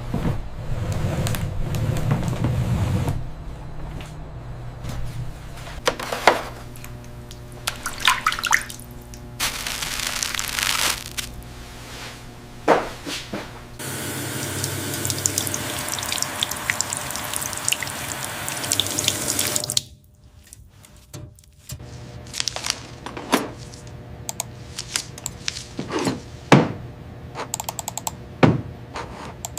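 Water running from a tap in bursts, with scattered short knocks and clinks of things being handled in between.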